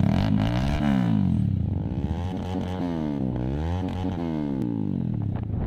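Motorcycle engine running, its pitch rising and falling several times.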